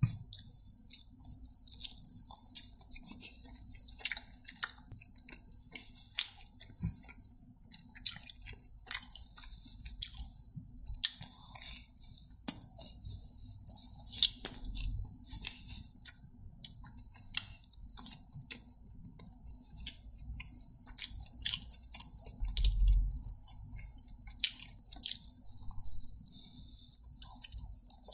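Close-miked eating: a person chewing and biting food, with many short, sharp mouth clicks and small crunches.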